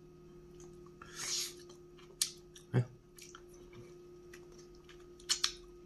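A person chewing and gnawing meat off a stewed bone. Quiet chewing comes with a brief hiss about a second in and a few short, sharp clicks, the loudest near the middle and near the end.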